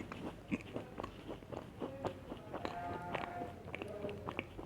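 Close-miked crunching and chewing of chocolate cookies, a quick series of short crisp cracks and clicks. A brief tonal sound is heard about midway.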